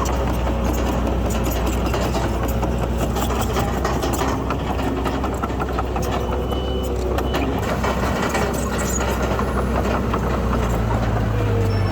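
Heavy construction machinery's diesel engine running steadily with mechanical clatter; its note changes about ten and a half seconds in.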